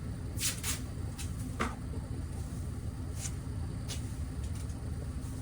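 Thin plastic masking sheeting rustling and crinkling as it is handled, in a few short sharp crackles, over a steady low hum.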